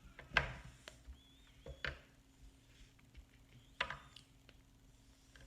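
A few light knocks and taps of food and utensils being handled in a bowl, three sharper knocks roughly a second and a half apart.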